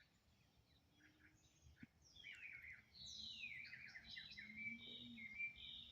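Faint songbirds chirping: short quick downward-sliding notes starting about a second and a half in, then louder repeated song phrases from about three seconds in.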